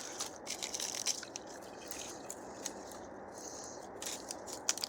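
Footsteps through dense brush: dry leaves and twigs crunching and snapping underfoot in irregular short cracks.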